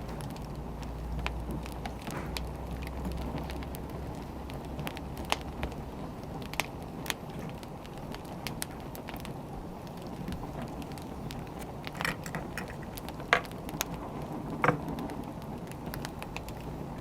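Burning firewood crackling steadily, with scattered sharp pops; a few louder snaps come about twelve to fifteen seconds in.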